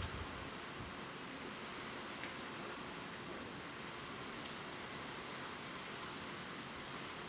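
Gentle, steady rain falling on leaves: an even hiss with a few single drops ticking out, one more clearly a little after two seconds in.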